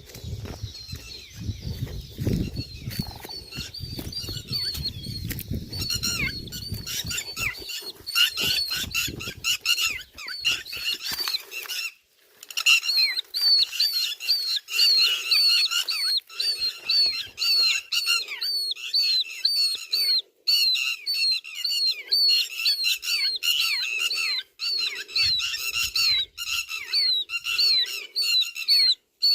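A lapwing (pewit) calling: long runs of sharp, repeated notes, several a second, broken by short pauses. A low rumble sits under the calls for the first ten seconds or so.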